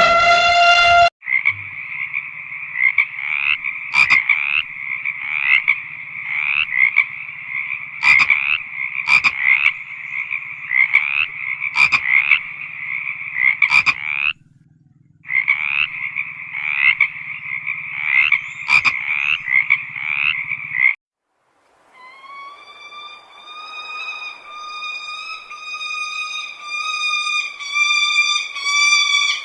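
Frog chorus: dense, pulsing croaks with sharp clicks every second or two, breaking off for a moment near the middle and stopping about two-thirds of the way through. A sustained musical tone with overtones then swells in, the start of music.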